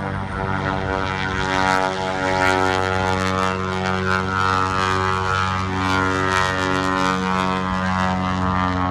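Aircraft flying close by: a steady, loud engine drone with a strong low pitch, growing louder over the first couple of seconds and then holding.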